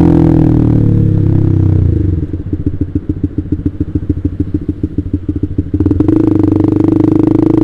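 Honda CBR150R single-cylinder engine running through a KJ Pro Performance aftermarket exhaust. The revs fall away to a lumpy, pulsing idle about two seconds in, then rise in a short, steady rev about six seconds in.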